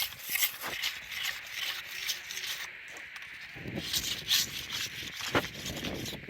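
Irregular scraping and rubbing with scattered knocks, the strongest stretches a little past halfway.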